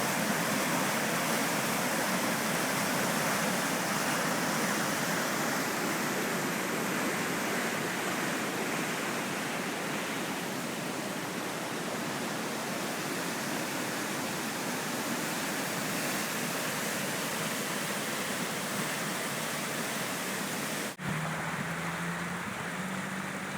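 Deerfield River in flood: a steady rush of fast, high floodwater. Near the end it cuts abruptly to a softer rush with a low steady hum underneath.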